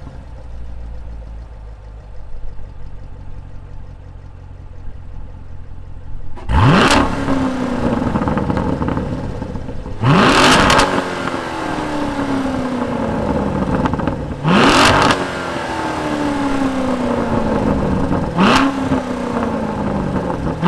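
2019 Chevrolet Corvette Grand Sport's 6.2 L pushrod V8, just started, idling through its quad exhaust, then revved in neutral four times, every three or four seconds, each rev dropping back to idle.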